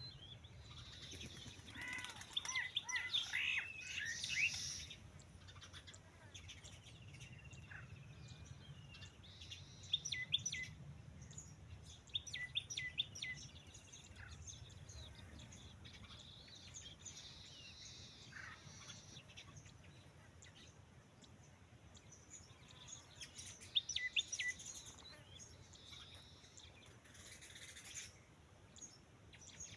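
Birds chirping: clusters of short high chirps come every several seconds over a faint, steady low rumble.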